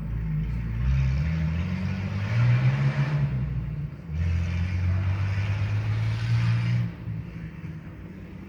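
Jeep engine with its exhaust removed, pulling under throttle in two surges of a few seconds each, the pitch rising each time, then dropping back toward idle near the end.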